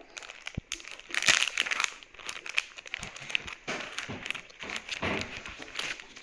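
Craft kit packaging being opened and handled: irregular crinkling and rustling, with small clicks and taps throughout.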